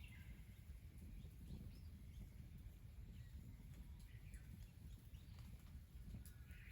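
Near silence: quiet countryside ambience with a low rumble and a few faint, distant bird chirps.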